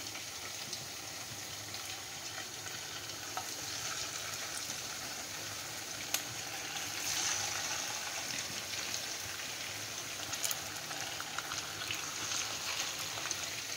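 Fish cutlets sizzling in hot oil in frying pans, a steady hiss with a few faint clicks. The sizzle swells about seven seconds in as more patties are laid into the second pan.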